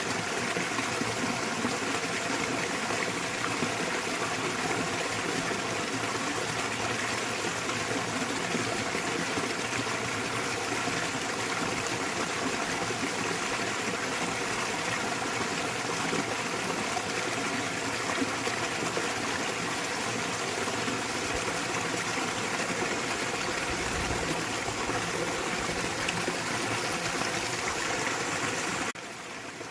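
Small waterfall splashing into a mountain stream: a steady rush of falling and flowing water, which drops suddenly in level just before the end.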